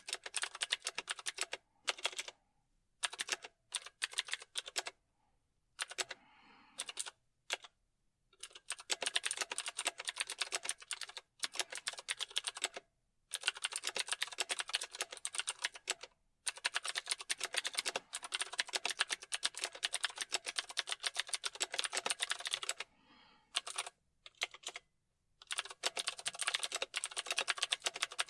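Typing on a computer keyboard: runs of rapid keystroke clicks broken by several short pauses.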